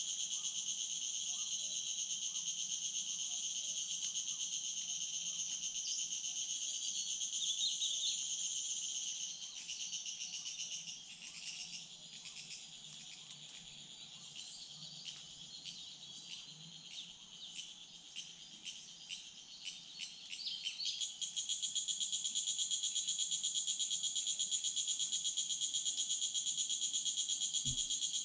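Steady, high insect chorus with a fast pulsing buzz. It fades about a third of the way in, with a few scattered clicks in the lull, then comes back louder about three quarters of the way through.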